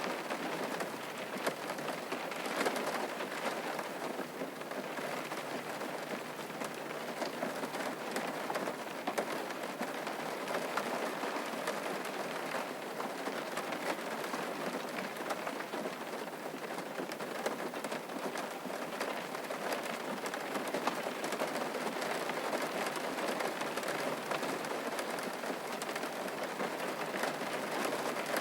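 Steady rain falling and pattering on surfaces, with many fine drop ticks.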